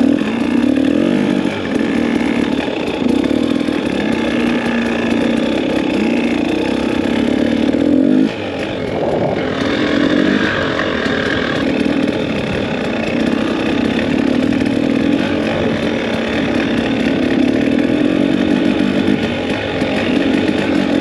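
Two-stroke dirt bike engine running on the throttle, its revs rising and falling, with a brief drop in level a little after eight seconds.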